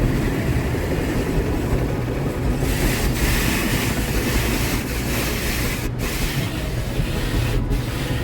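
Steady low rumble of a car heard from inside, with a loud hiss joining about two and a half seconds in and breaking off briefly twice.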